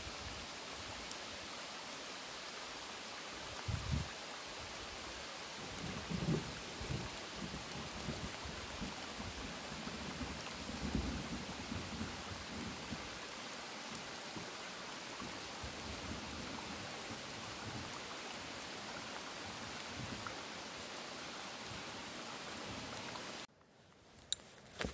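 Steady hiss of rain falling through a beech wood, with occasional low rumbles. The hiss cuts off suddenly near the end, leaving only faint light patter.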